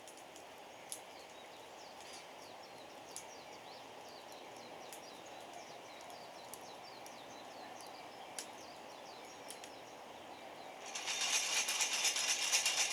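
Wood fire crackling with a few single sharp pops, then near the end about two seconds of coffee beans rattling loudly as the hand roaster is shaken.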